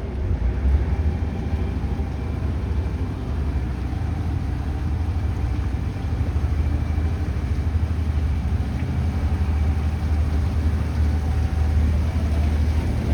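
Boat engine running steadily: a constant low drone with the rush of the moving boat over it.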